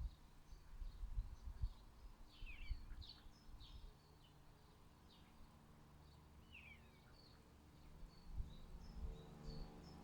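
Small garden birds chirping faintly, with short high chirps scattered throughout and a few quick downward-sliding calls, over a low, uneven outdoor rumble.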